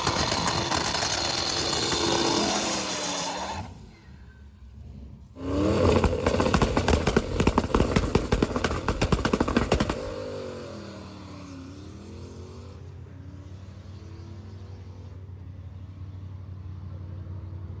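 Car engine running loudly under load, dropping away for a moment, then a stretch of rapid, rough pulsing. After that, a quieter engine with revs rising and falling, settling into a steady drone.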